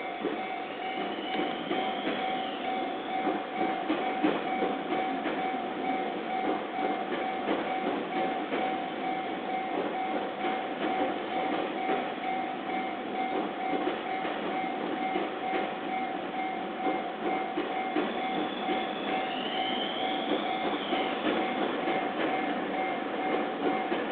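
Japanese level crossing alarm sounding as one steady tone while an E351 series electric train rolls past, its wheels clattering over the rail joints. A brief high squeal rises and falls twice, once about a second in and once near the end. Dull, narrow-band audio from a flip phone's microphone.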